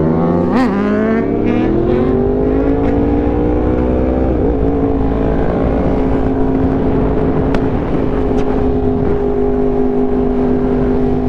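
Sport motorcycle engine accelerating, its pitch climbing over the first four seconds, then holding a steady pitch at cruising speed, with wind rushing over the microphone.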